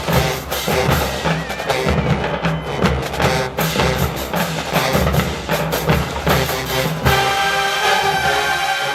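HBCU show-style marching band playing: the drum section beats out a busy cadence, and about seven seconds in the horns come in with held chords.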